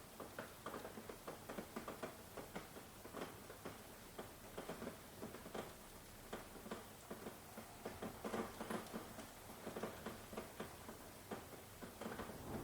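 Rain falling, heard as many separate drops striking a surface at irregular intervals over a soft background hiss.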